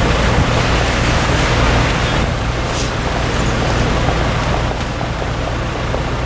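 Mercedes C63 AMG's 6.2-litre V8 idling with a steady low rumble, under a constant hiss of traffic on a wet road.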